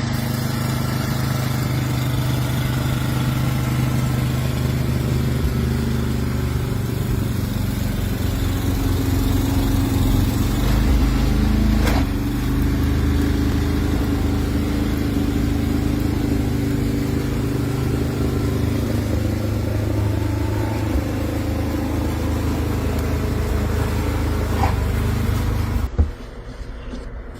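A motor vehicle's engine running steadily, with a short knock about twelve seconds in. The sound cuts off abruptly near the end.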